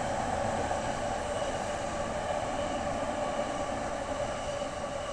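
JR Yamanote Line electric commuter train running past, a steady rolling rumble of wheels on rails that eases slightly near the end.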